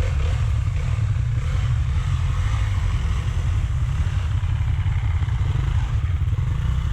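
Rieju Marathon Pro 125 dirt bike running steadily as it is ridden along a trail, a constant low rumble with no changes in pitch.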